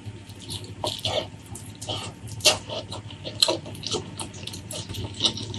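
Close-miked wet chewing and lip-smacking as a person eats, with many short irregular smacks and clicks.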